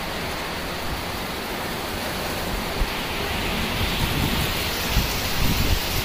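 Heavy rain falling steadily as an even hiss, with low rumbling gusts that grow stronger near the end.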